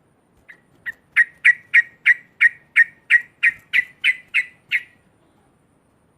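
Sooty-headed bulbul (trucuk) giving a loud chattering run of about thirteen short, sharp notes, roughly three a second, the first couple softer, then stopping.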